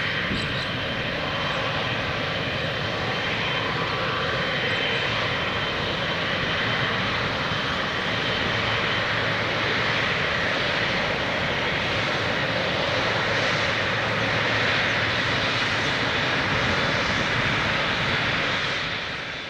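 Jet airliner's engines, a steady loud rush of noise that holds level throughout.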